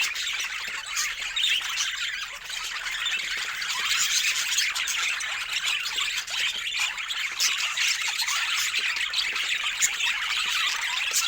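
A flock of budgerigars chattering and squawking together, a dense steady stream of short high calls.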